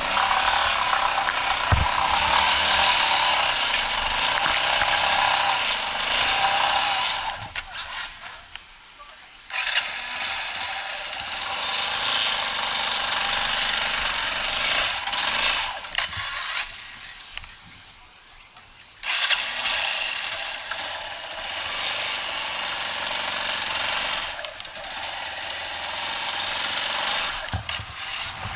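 Single-cylinder off-road motorcycle engine running on a trail ride, its note rising and falling with the throttle. It drops back twice, for a couple of seconds each time, then picks up again.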